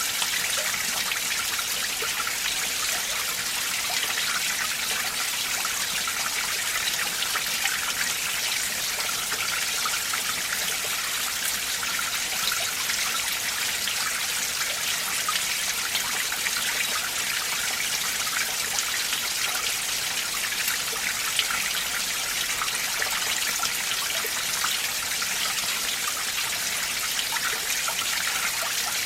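Winter mountain stream with icy water flowing steadily, a continuous splashing rush with no breaks.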